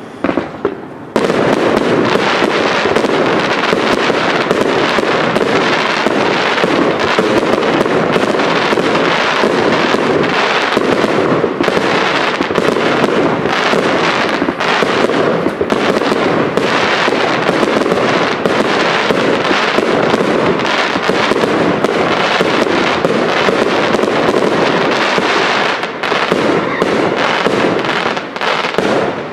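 Professional aerial fireworks display: a dense, unbroken barrage of shell bursts, many rapid bangs running into one another. It starts abruptly about a second in.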